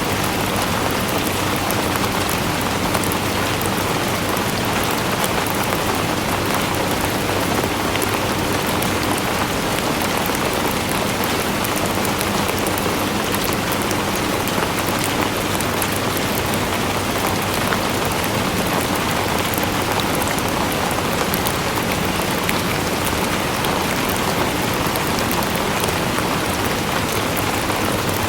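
Steady rain falling on a surface, a constant hiss dotted with many fine drop ticks.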